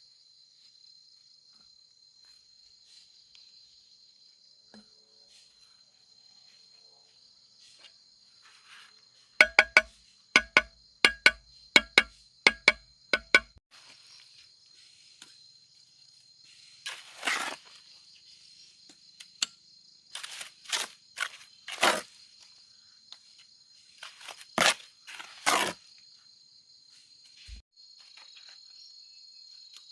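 Steady high buzzing of insects throughout. About a third of the way in comes a run of about nine sharp, ringing strikes, roughly two a second. These are followed by several longer scraping, crunching noises.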